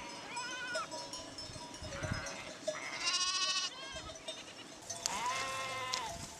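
Several sheep bleating one after another. The loudest, highest call comes about three seconds in, and a long call comes near the end.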